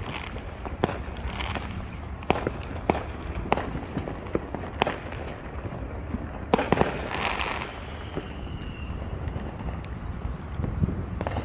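Fireworks going off: a dozen or so scattered sharp pops and bangs, with a burst of crackling about seven seconds in.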